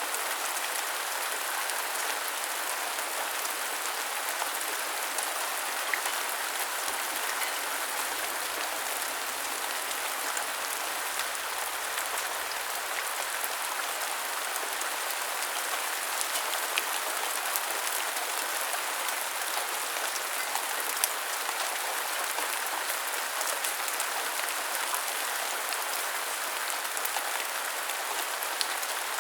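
Steady rain falling, with many small drops ticking sharply on hard surfaces.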